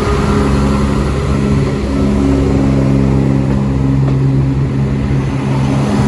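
Diesel multiple unit's underfloor engines running under power with a steady low engine note as the train pulls away.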